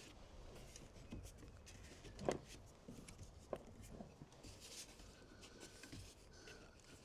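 Faint scraping and handling with a few small knocks and clicks, the sharpest about two seconds in, as a clamp is fitted onto the cracked plastic trim of a truck topper's hatch.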